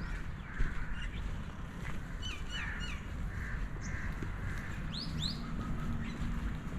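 Outdoor birds calling: several short harsh calls, a quick run of high chirps a little over two seconds in, and two rising high calls about five seconds in, over a steady low rumble of traffic or wind.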